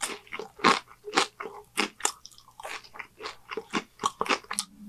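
Close-miked chewing of a mouthful of food, with irregular crisp crunches two or three times a second.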